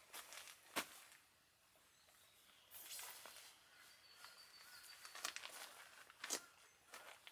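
Quiet outdoor background with faint rustling and a few sharp taps, the loudest a little under a second in and another about six seconds in.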